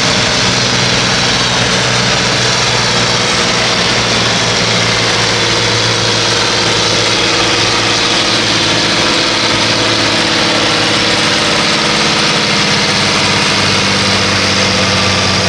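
Pulling tractor's engine running steadily, a loud, constant engine note with no revving up or down.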